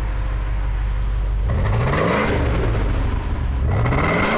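Mercedes-Benz 560SEL's 5.6-litre V8 on its stock exhaust, heard at the tailpipe: idling, then revved twice, about a second and a half in and again near the end, each rev rising in pitch.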